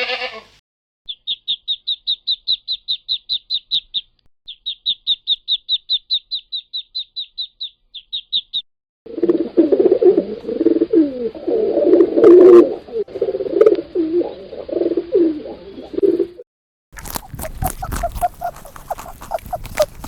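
The tail of a goat's bleat, then a duckling peeping rapidly and high, about seven peeps a second in three runs. This is followed by a dove cooing low and loud for several seconds, the loudest part. The last few seconds are a rabbit's rustling, a dense run of clicks.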